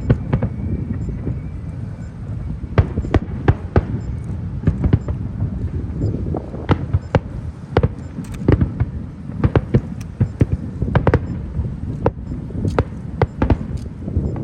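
Fireworks display: many sharp bangs from bursting shells, several a second at irregular intervals, over a steady low rumble.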